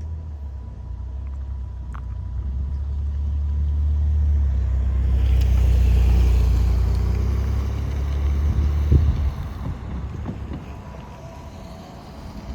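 A vehicle passing by: a low rumble that swells to its loudest about halfway through and then fades away.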